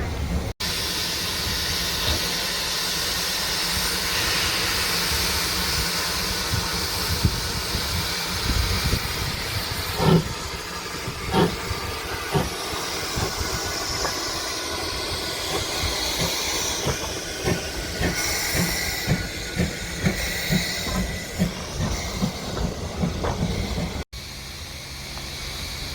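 A ScotRail train passing through the station: a steady rumble and hiss, with a run of quick wheel clicks over the rail joints through the middle and later part.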